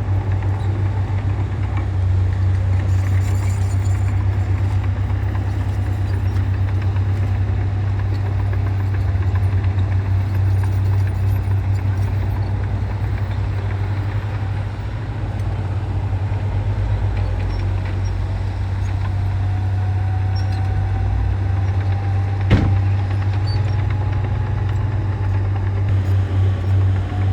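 Komatsu bulldozer's diesel engine running steadily with a deep, continuous rumble, with a faint whine rising and falling near the end and a single sharp knock about 22 seconds in.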